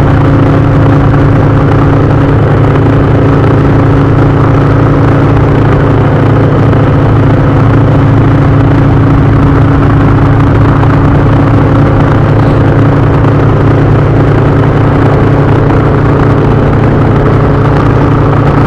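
Indian touring motorcycle's V-twin engine running steadily at cruising speed, loud and even with no change in pitch.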